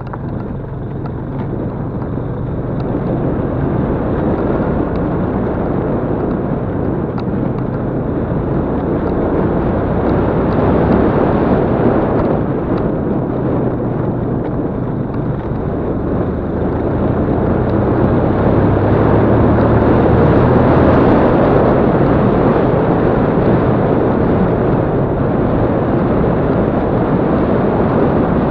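Yamaha Crypton-X single-cylinder motorcycle engine running under way, mixed with heavy wind noise on the microphone, growing louder over the first several seconds and dipping briefly about halfway through.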